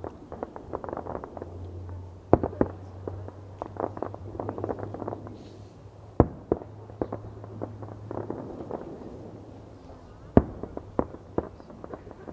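Fireworks going off: three loud sharp bangs about four seconds apart, with bursts of crackling and smaller pops in between.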